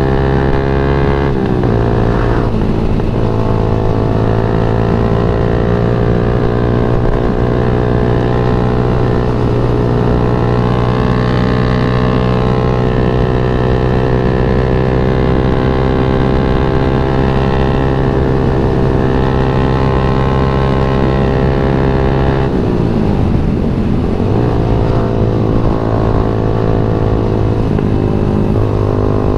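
Yamaha MX King 150's single-cylinder four-stroke engine pulling at speed while riding: its pitch drops sharply twice near the start as it shifts up, holds steady through a long stretch, then falls sharply about 22 seconds in as the rider slows and climbs again as it picks back up.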